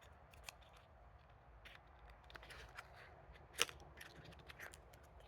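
Packaging of a small perfume box being handled and opened: scattered soft clicks and light rustles, with one sharper click about three and a half seconds in.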